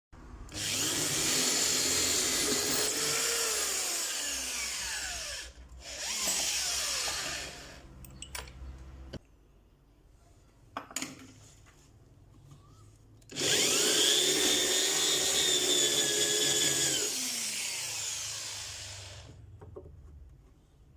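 Electric drill running into wood in three runs, the last and longest in the second half; each time the motor whine falls away as it winds down.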